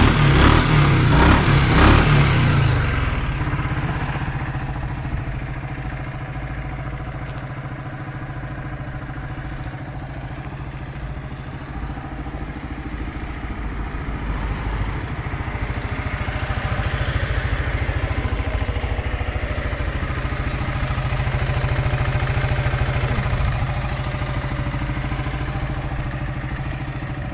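Yamaha Maxam 250 cc single-cylinder scooter engine revved briefly at the start, then idling steadily.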